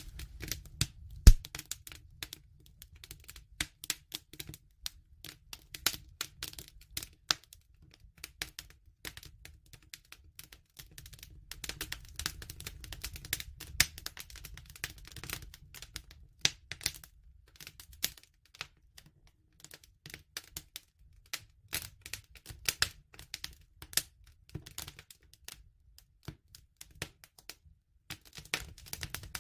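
Campfire crackling, with irregular sharp pops and snaps, the loudest about a second in, over a low rumble.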